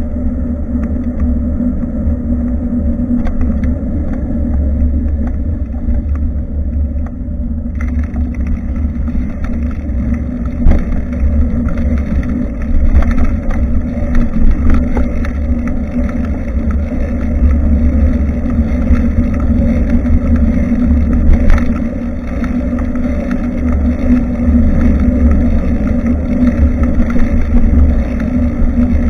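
Steady, loud low rumble of wind buffeting the microphone of a rear-facing action camera on a moving bicycle, with a hiss of road and tyre noise over it.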